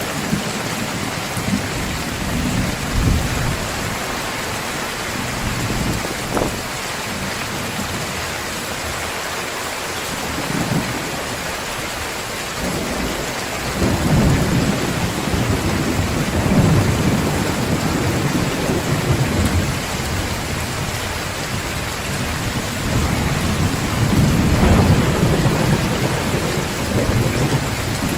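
Heavy rain pouring down steadily, with low rolling thunder rumbling underneath; the thunder swells twice in the second half.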